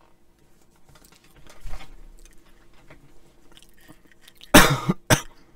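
Crunchy Flamin' Hot Cheetos being bitten and chewed close to the microphone, with two loud crunches near the end.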